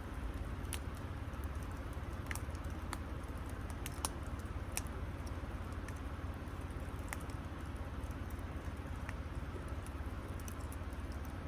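Wood campfire crackling: sparse, irregular sharp pops over a steady low rumble.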